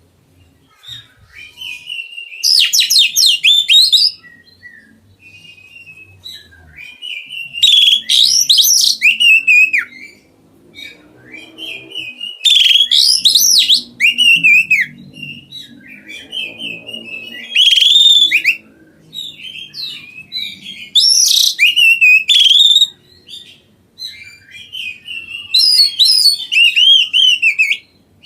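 Songbird singing loud, varied phrases of whistles and chirps, one phrase every four or five seconds, with softer chirps in between.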